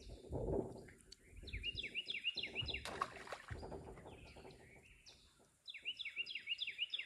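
A songbird singing nearby in two runs of quick repeated chirping notes, one about a second and a half in and another near the end. Under it runs low, uneven rustling and rubbing close to the microphone, with one sharp click about three seconds in.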